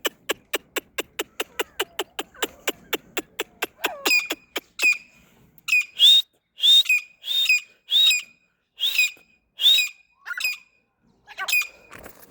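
A bird calling: a fast, even series of sharp clicks, about five a second, then a run of short, whistled calls repeated about every two-thirds of a second.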